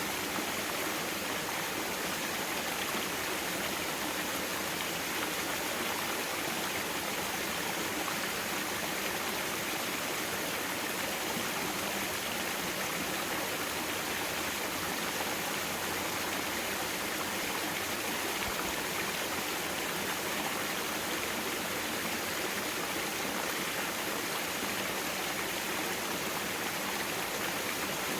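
Mountain stream water flowing and rushing over rocks, a steady unbroken splashing.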